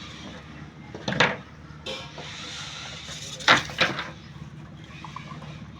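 An engine running steadily, with a few sharp knocks about a second in and again around three and a half seconds in.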